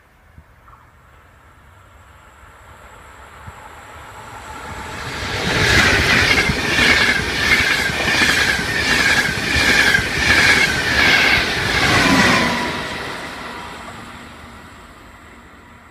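ETR 500 Y2 'DiaManTe' electric high-speed diagnostic train passing through the station at speed: a rush that grows as it nears, then a beat about twice a second from the wheels as the coaches go by, and a drop in pitch as it pulls away and fades.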